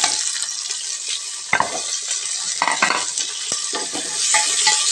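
Sliced onions and tomatoes sizzling in hot oil in an aluminium pressure cooker. A wooden spoon stirs them and scrapes and knocks against the pot several times. The sizzle grows louder about four seconds in.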